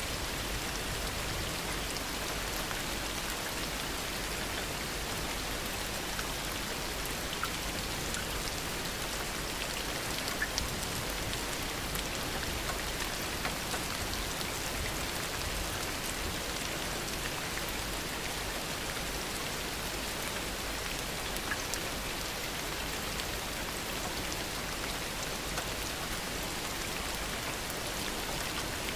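Steady heavy rain falling, with individual drops ticking now and then over a constant even hiss.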